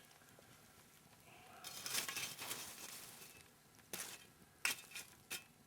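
Campfire coals being dragged out of the fire: a scraping rustle starting about two seconds in, then three sharp metallic clinks near the end.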